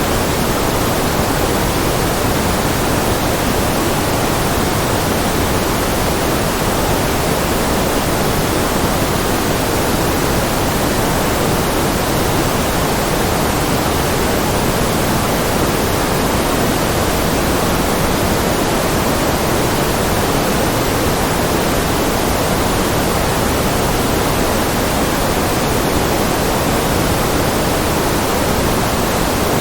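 Steady synthetic noise, an even hiss with its weight toward the lower middle, unchanging throughout.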